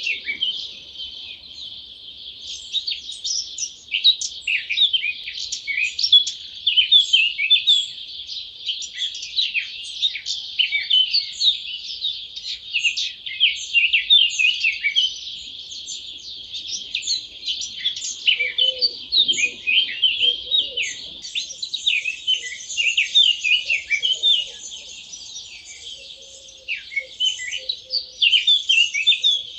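Dawn chorus: many wild birds singing at once, a dense, unbroken run of overlapping chirps and song phrases. A thin, higher layer of sound joins about two-thirds of the way in.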